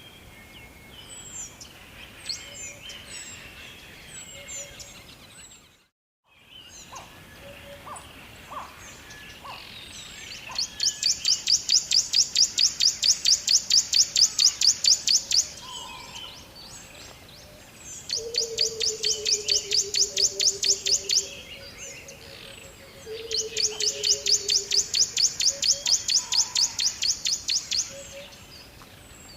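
Birds singing, with short high chirps at first and then three bouts of a loud, fast trill of evenly repeated high notes, about six a second, each lasting several seconds. Twice a lower whistle slides down in pitch. The sound drops out entirely for a moment about six seconds in.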